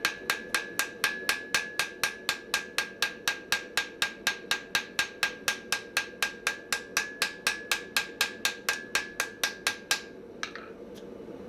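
Steady, even hammer blows on hot mild steel at an anvil, about four a second, with a ringing tone carrying through. The strikes stop about ten seconds in, followed by a couple of light clinks.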